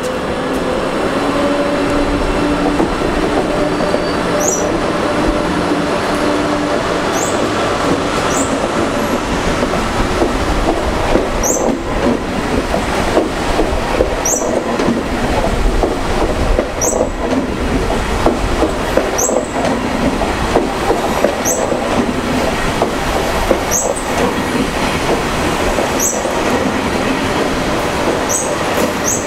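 KTX-Sancheon high-speed train rolling past along the platform: a steady rumble of wheels on rail, with short high squeaks recurring every second or two as the carriages go by.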